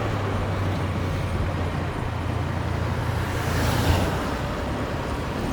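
Motorbike engine running steadily under way, with road noise; a brief swell of hiss and a small bump in level come about three and a half to four seconds in.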